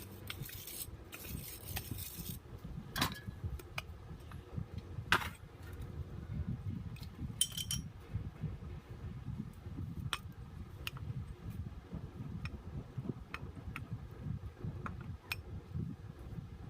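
Small metal parts and tools clinking and tapping now and then while a starter motor is worked on by hand, with a low rumble underneath.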